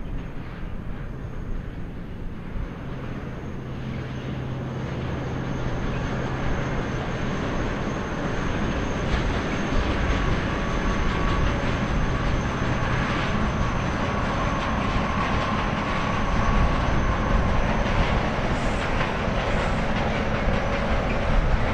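A train running past on the rails, its noise building gradually.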